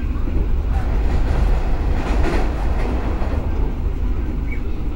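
Running noise of the Argo Wilis passenger train heard from inside the coach: a steady low rumble of wheels on the rails, with a swell of hiss about two seconds in.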